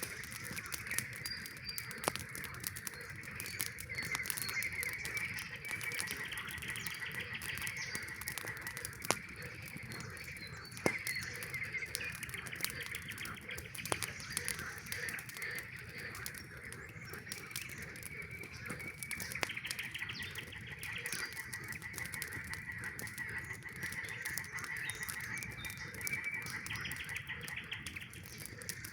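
A chorus of frogs calling without a break, with stretches of rapid pulsed trilling now and then. A few sharp pops from a campfire stand out, about two, nine, eleven and fourteen seconds in.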